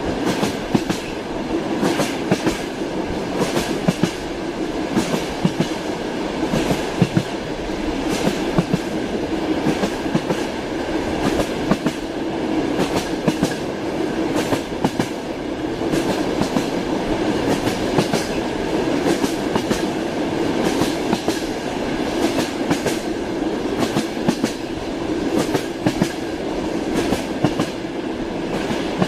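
Train running on the rails: a steady rumble and hum with many sharp, irregular clacks of the wheels over rail joints.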